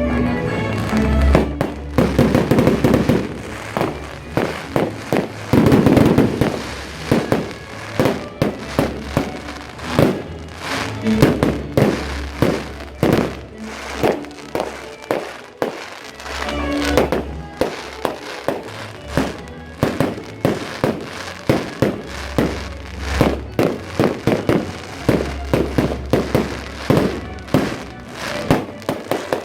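Fireworks going off in a rapid, continuous series of bangs and crackling bursts, with music playing underneath.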